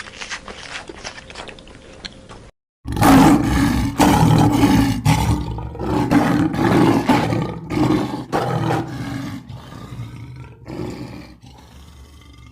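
A large animal's loud, low calls, repeated about once a second, starting after a short break about three seconds in; a quieter animal clip comes before the break.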